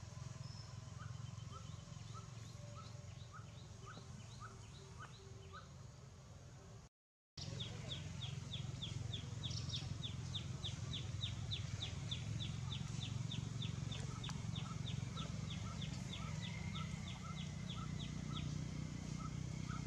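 Birds calling in the background with two series of short, evenly repeated chirps, one higher and quicker at about four a second, the other lower and slower, over a low steady rumble. The sound drops out briefly about seven seconds in.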